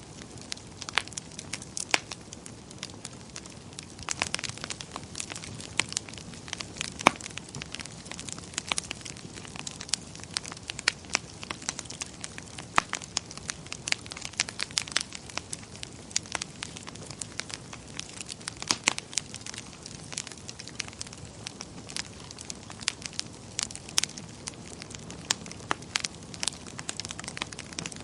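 Fire burning in a fireplace, crackling steadily with frequent irregular sharp pops and snaps over a soft, even hiss.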